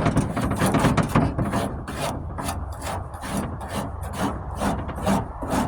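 Surform flat rasp blade shaving body filler on a truck tailgate, in quick repeated back-and-forth strokes.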